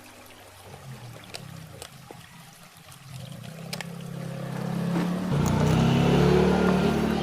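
Trickling water with a few sharp clicks. A steady low tonal sound comes in about three seconds in and grows louder past the halfway mark.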